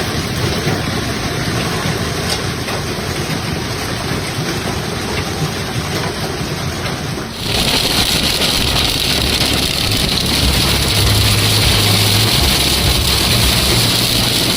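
Heavy hail and rain pelting down as a dense, steady hiss with scattered ticks. About seven seconds in the sound changes abruptly, becoming louder and hissier, with a low rumble underneath like a running vehicle.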